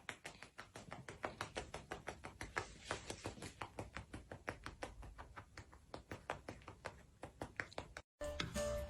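A quick, uneven run of light clicks or taps, several a second, cut off suddenly near the end, where music with a plucked melody starts.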